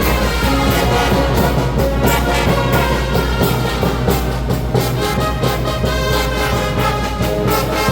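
Brass band playing live, with trumpets and trombones over a steady drum beat and a low bass line.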